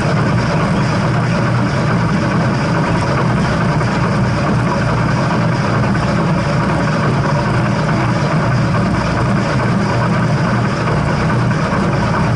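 Steady, loud rumble of a moving heritage steam train, with no separate beats or whistle standing out.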